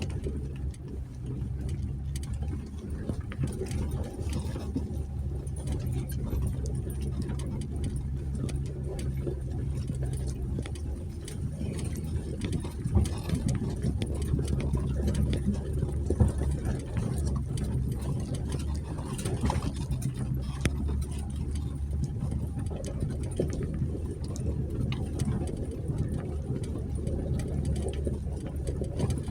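2020 Jeep Gladiator's engine running steadily at low speed as the truck crawls along a dirt trail, with two brief sharp knocks a few seconds apart near the middle.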